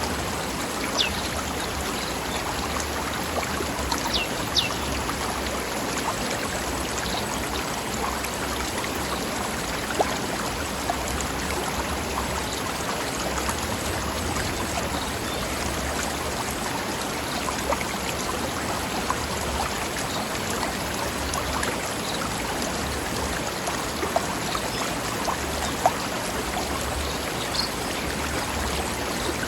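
A forest stream flowing steadily over rocks, a continuous babble of running water with an occasional small splash.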